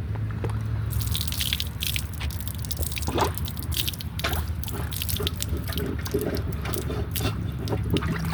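Rubber plunger worked in the standing water of a drinking fountain's clogged drain, with irregular splashes and drips. The drain is blocked with live oak leaves.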